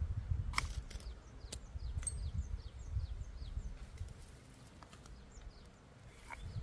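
Outdoor ambience: a low, fluctuating rumble under everything, a few sharp clicks in the first second and a half, and a bird's quick run of short falling chirps about two to three seconds in.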